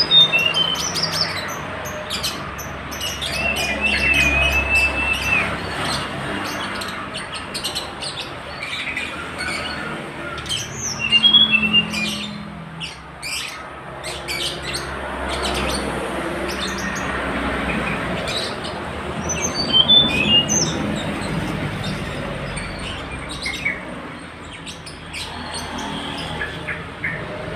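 Tledekan gunung bird calling in scattered short chirps and squawks, with a longer warbling phrase a few seconds in, over a steady background hiss.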